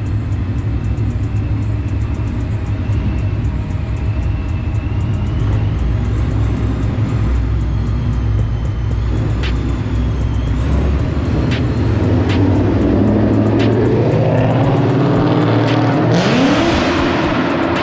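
Car engine running, then revving in a rising climb over the last few seconds, with a sudden loud hiss about sixteen seconds in.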